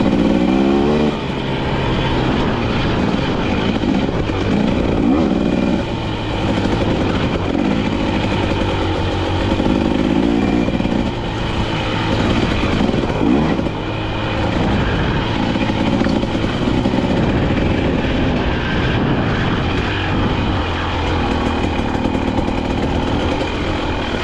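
KTM dirt bike engine revving as it is ridden off-road. The pitch climbs and drops again and again as the throttle opens and closes and the bike shifts.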